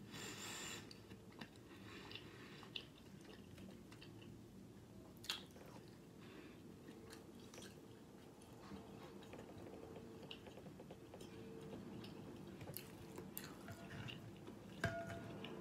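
Faint chewing and mouth sounds of a person eating close to the microphone, over a steady low hum. A couple of sharp clicks stand out, about five seconds in and near the end.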